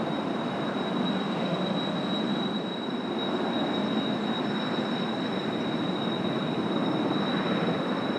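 Kawasaki T-4 jet trainers' F3 turbofan engines running, a steady roar with a high, unwavering whine over it.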